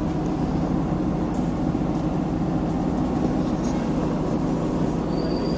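Steady rumble of engine and road noise heard from inside an air-conditioned bus while it is moving.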